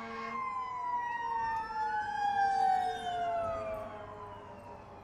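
Emergency vehicle sirens wailing, at least two at once, their pitches sliding up and down across each other.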